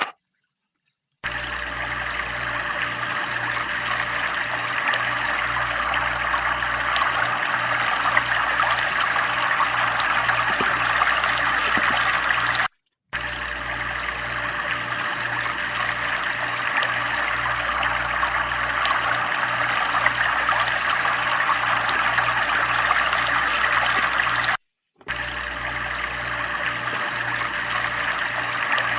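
Water rushing and splashing steadily from a tubewell, starting about a second in and cutting out briefly twice.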